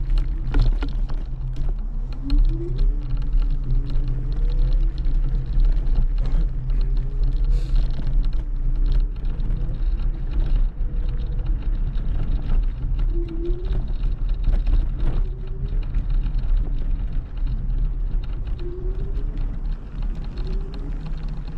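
Kugoo G2 Max electric scooter being ridden: a steady low rumble of wheels and wind, with a whine that rises in pitch again and again, and scattered knocks from bumps in the path.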